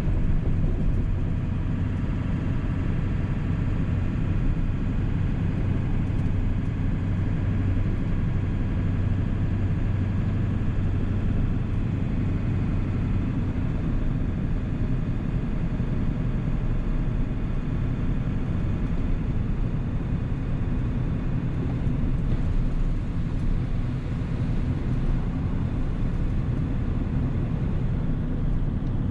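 1997 Ford 7.3 Powerstroke turbo-diesel V8 running steadily with a low, even drone. The tone is strongest in the first dozen seconds and then eases a little.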